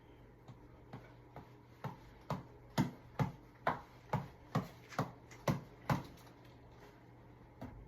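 Tap ball (reflex ball on an elastic headband cord) being punched in a steady rally: about a dozen evenly spaced hits, about two a second, growing louder, then stopping about six seconds in.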